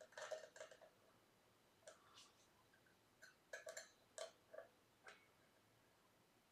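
Faint, irregular small clicks and taps of tool work on a guitar bridge, a hex key turning a saddle's height screws to lower the string action.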